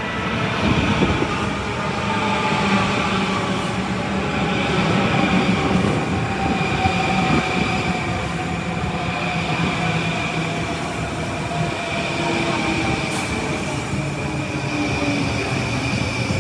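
Train running close by, loud and continuous. A whine slowly falls in pitch over a steady high-pitched squeal and a low rumble.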